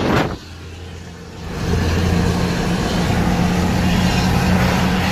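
Freightliner cabover's 14-litre Detroit diesel engine running steadily. After a brief rush of wind noise at the start it is quiet for about a second, then louder from about a second and a half in.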